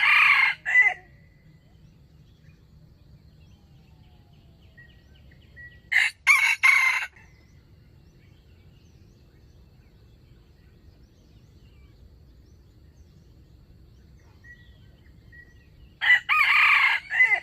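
A rooster crowing three times, each crow short, about a second long; the crows come about six and then ten seconds apart.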